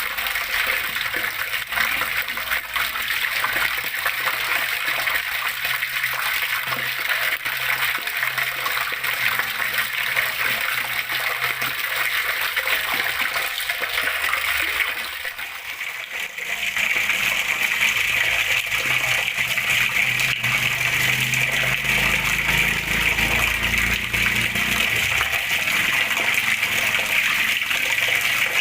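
Running water flowing steadily. About halfway through it dips briefly, then comes back as a brighter, fuller rush.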